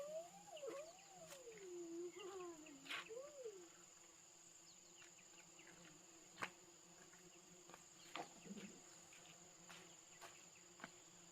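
Insects chirring with a steady, high-pitched drone. In the first few seconds a faint wavering whine glides up and down, and a few sharp faint clicks follow, the loudest about six and a half seconds in.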